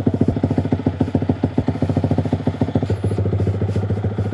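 Yamaha R15 V3's single-cylinder engine idling steadily through a MIVV Suono aftermarket exhaust, a rapid even pulsing throb.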